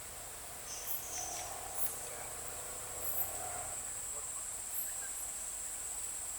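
Insects chirring in a steady, unbroken high-pitched drone, with scattered short faint chirps over it.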